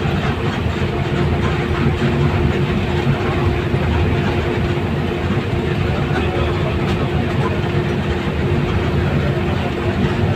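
Steady rumble of a moving vehicle, with a constant hum over it and no breaks.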